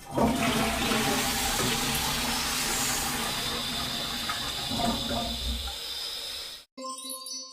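Toilet flushing: a loud rush of water that starts suddenly and slowly eases off over about six and a half seconds. A short bright chime follows near the end.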